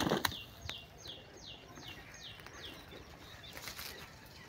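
A bird calling a quick run of short, high, falling notes, about three a second, which stops about three seconds in. Leaves rustle briefly near the start and again near the end as a long bamboo picking pole works in the branches of a mango tree.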